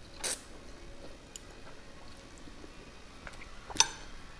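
A person eating instant ramen noodles: a short slurp just after the start, then quiet chewing with a few small clicks. A single sharp click about four seconds in is the loudest sound.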